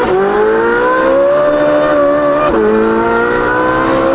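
Ferrari 458's naturally aspirated V8 accelerating hard through a titanium exhaust with free-flow front pipes, heard from inside the cabin. The pitch climbs, drops at an upshift about two and a half seconds in, then climbs again.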